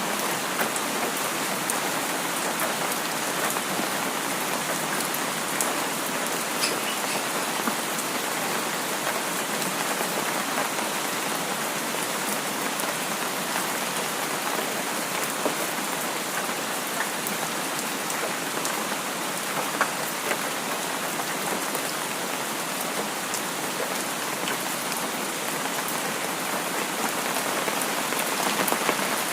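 Steady rain falling, a dense even patter with scattered sharper drops striking a surface.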